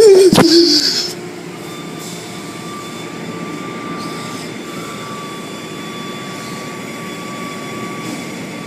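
Automatic car wash machinery running steadily, heard from inside the car: an even rushing noise with a faint steady whine. It opens with a loud, brief sound that wavers in pitch during the first second.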